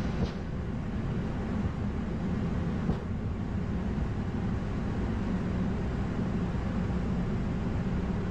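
Airbus A220-100 cockpit during the takeoff roll: a steady low rumble of the engines at takeoff thrust and the wheels running on the runway. Two short clicks come just after the start and about three seconds in.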